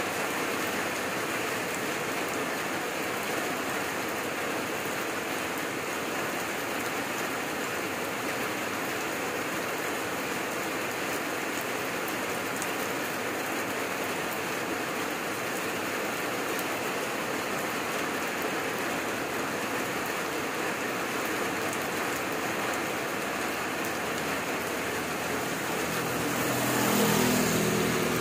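Heavy rain falling steadily, an even dense hiss. Near the end a louder low hum with a steady pitch swells briefly over it.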